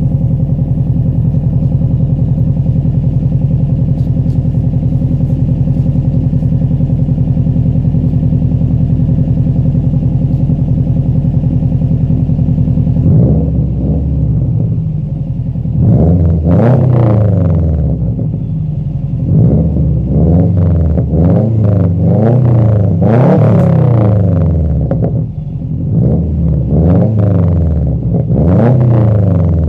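Subaru Impreza WRX STI 2.5-litre turbocharged flat-four engine breathing through a Blitz Nur Spec R catback exhaust: it idles steadily for the first half, then is revved up and let fall back several times, the pitch rising and dropping with each blip.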